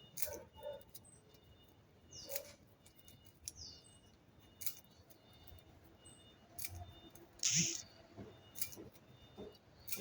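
Scattered light clicks and taps, with two short high chirps that fall in pitch, from a bird, and a brief rustle about three quarters of the way through, the loudest sound.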